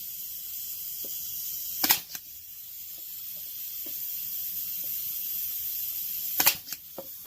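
Staple gun firing twice, about four and a half seconds apart, each shot a sharp loud snap, driving staples through window screen into the wooden swing. A steady high hiss runs underneath.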